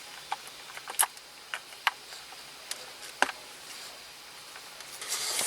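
Light clicks and taps of hands handling plastic center-console parts, about half a dozen spread out, with a brief rustle near the end.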